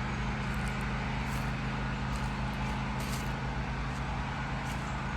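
Portable generator engine running steadily: an even, unbroken hum.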